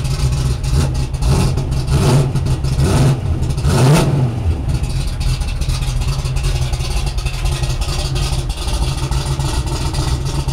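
Rover V8 drag car engine running, blipped several times in the first half so the revs rise and fall, the biggest rev about four seconds in, then settling back to a steady idle.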